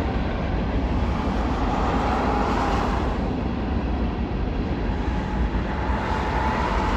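Steady road and engine noise of a moving car, heard from inside the cabin, with a faint whine that swells and fades a few times.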